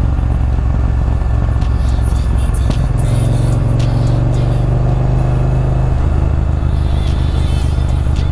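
Motorcycle engine running while riding, a steady low drone with wind noise; the engine note grows stronger and rises a little about three seconds in, then eases off again around six seconds.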